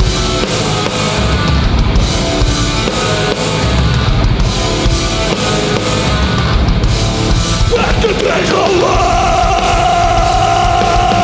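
Hardcore punk band playing live: loud distorted electric guitars, bass and drum kit. About eight seconds in, a long high held note slides up and sustains over the band.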